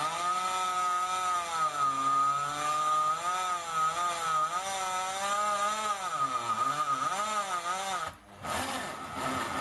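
Electric drill turning a core drill (hole saw) into soft aluminium, its motor whine wavering up and down in pitch as the speed changes. It stops briefly near the end and starts again. The drill's gearbox is noisy and, the owner says, dying.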